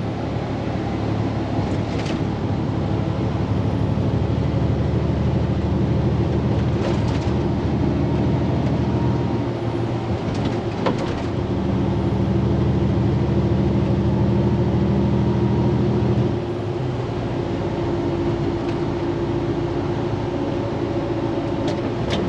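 Diesel engine of a semi-truck day cab heard from inside the cab while driving in traffic, running steadily under way; about sixteen seconds in the engine note drops and gets quieter.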